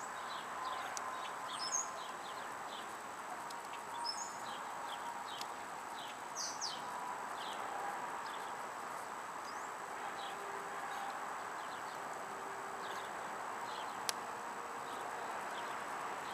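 Small birds chirping with short, scattered calls over a steady outdoor background, with a single sharp pop about fourteen seconds in.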